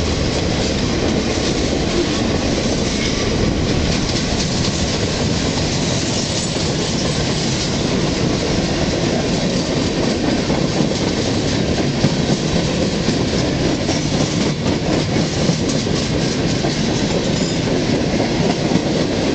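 Freight train cars rolling past on the rails: a steady, loud rumble of steel wheels with clickety-clack over the rail joints.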